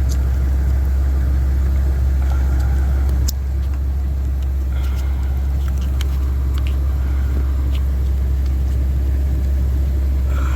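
A steady low rumble runs throughout, dropping slightly about three seconds in, with scattered light clicks and knocks of hands working on the engine's ignition coils.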